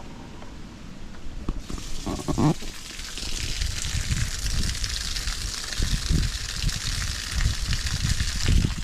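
Semi-automatic twin-tub washing machine draining its wash tub: the drain water starts gushing about two seconds in and keeps rushing out steadily. Some low knocks sound underneath.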